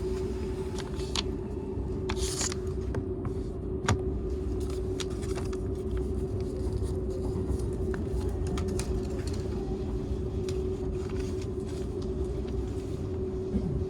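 Inside a Seibu 001 series Laview limited-express car (an unpowered driving trailer) running on the line: a steady low rumble with a steady hum, and scattered light clicks and knocks from the wheels and the car body.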